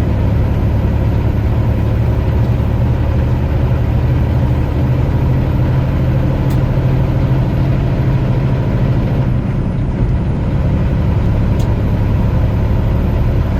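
Semi truck engine running, a steady low drone with no change in pace, with a faint click about six seconds in and another near the end.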